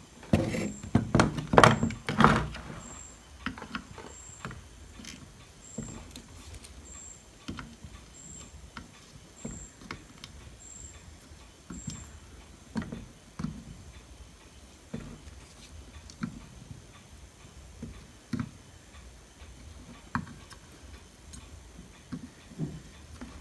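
Bench work on a circuit board: a burst of knocks and clatter from handling tools and the board in the first couple of seconds, then light clicks and scratches about once a second. A faint short high beep repeats about once a second through the first half.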